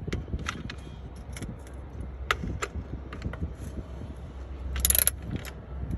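Hand tools and metal parts clinking and clicking during work on a truck engine's EGR pipework, with one short harsh burst about five seconds in, over a low steady rumble.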